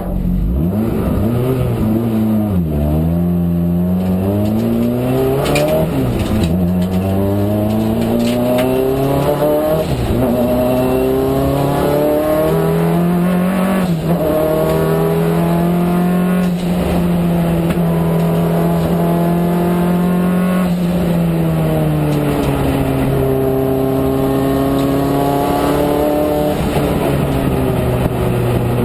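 Turbocharged Peugeot 205 GTi engine heard inside the cabin under hard acceleration on track. The revs climb and drop sharply several times as it shifts up through the gears, hold steady for a few seconds in the middle, ease off, then climb again near the end.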